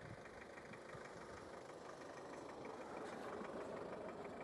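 Car engine idling steadily: a faint, even hum with a light, rapid ticking over it.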